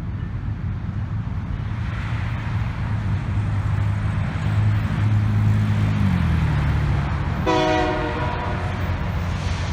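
Diesel freight locomotive running with a steady low engine drone that drops in pitch about six seconds in, then a short horn blast near the end.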